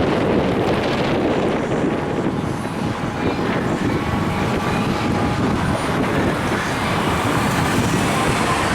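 Steady street traffic and vehicle engine rumble with no siren sounding.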